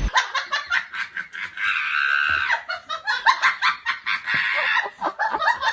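A person laughing hard in rapid, high-pitched bursts, with a longer held squeal about two seconds in.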